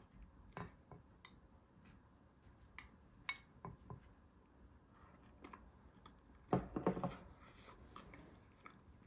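Utensils clinking and knocking against dishes, a few scattered clicks with a short cluster of louder knocks about two-thirds of the way through.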